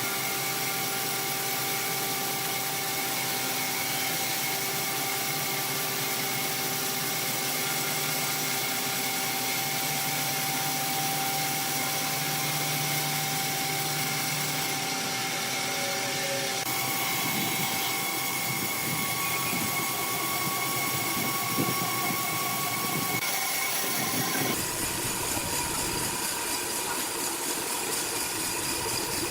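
Heavy machinery running steadily with a constant drone and steady tones. The sound changes abruptly about halfway through and again near the end, as one machine scene gives way to another.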